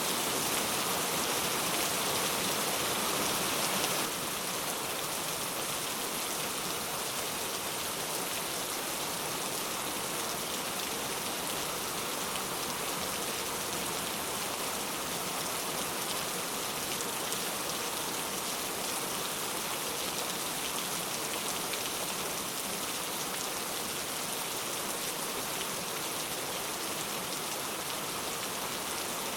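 Steady rain falling on a surface, an even dense hiss of drops that drops slightly in loudness about four seconds in.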